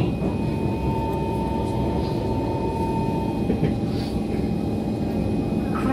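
Kawasaki-built C151 metro train running on elevated track, heard from inside the carriage: a steady rumble of wheels and running gear. A steady high whine fades out about three and a half seconds in.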